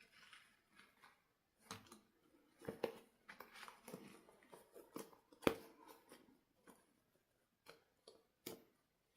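Close handling noises: a run of light clicks, taps and short rustles, the sharpest click about five and a half seconds in, with a few more near the end.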